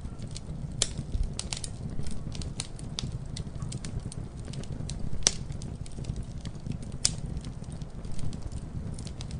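Campfire crackling: irregular sharp pops and snaps over a steady low rush of burning, with the loudest pops just under a second, about five seconds and about seven seconds in.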